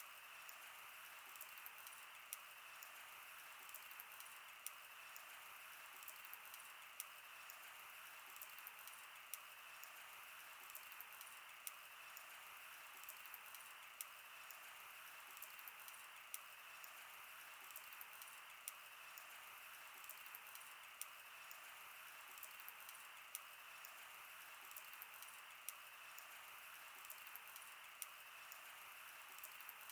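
Wood fire burning: a faint, steady hiss with sharp crackles and pops every second or so.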